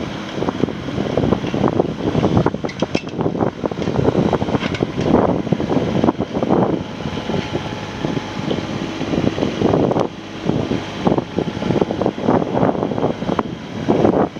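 Kubota RX-306 mini excavator's diesel engine running, with gusty wind buffeting the microphone and making the level swell and dip.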